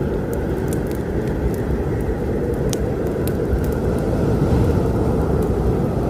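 Wood fire crackling in scattered sharp pops over a steady low storm rumble.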